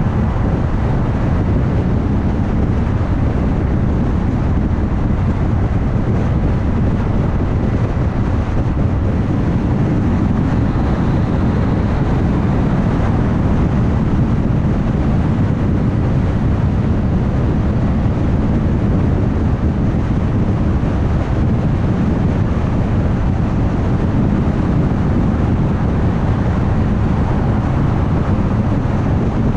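Steady road noise of a car cruising at highway speed: an even low rumble of tyres on the road surface mixed with wind rush, holding constant throughout.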